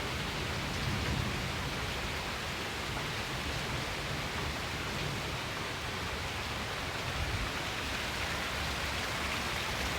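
Heavy rain falling in a thunderstorm, a steady even downpour.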